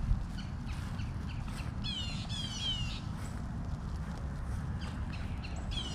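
Outdoor bird calls: short, downward-sliding squawks, three close together about two seconds in and another near the end, over a low steady rumble.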